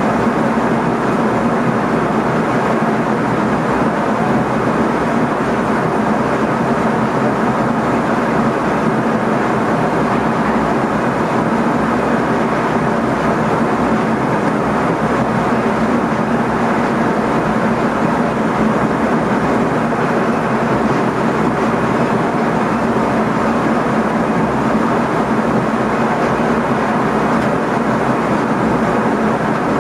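Driver's cab of an NS ICM (Koploper) electric multiple unit running along the line: steady running noise of wheels on rails with a constant low hum.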